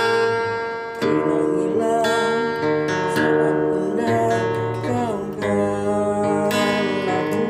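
Acoustic guitar played with its E and G strings broken, sounding out of tune: chords strummed near the start, about a second in and near the end, with notes ringing and sliding in pitch in between.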